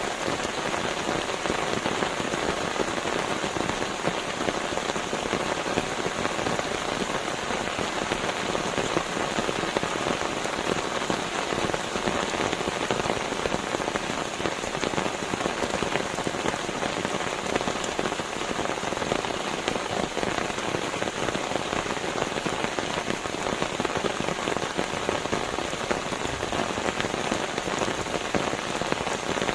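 Steady rain falling on a surface, a dense even spatter of many drops with no pauses.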